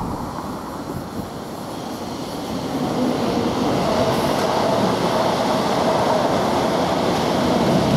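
Two electric multiple-unit passenger trains passing close below on adjacent tracks. The rumble of wheels and running gear swells about three seconds in and then holds steady, with a faint steady whine over it.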